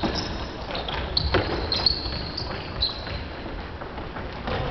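Futsal being played in a gymnasium: the ball struck sharply twice, near the start and about a second and a half in, with short high squeaks of shoes on the court floor and the hall's steady low rumble.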